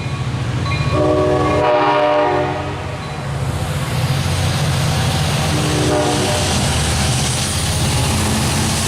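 Train horn sounding a chord for about a second and a half, starting about a second in, with a shorter, fainter blast near six seconds, over the steady rumble of a moving train's diesel engine and wheels.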